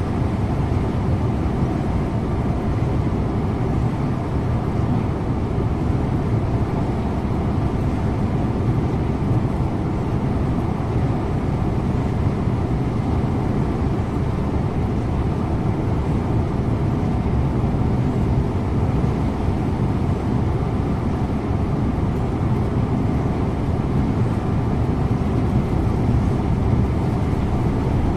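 Scania InterLink bus driving at a steady speed: a low, even drone of engine and road noise with no changes.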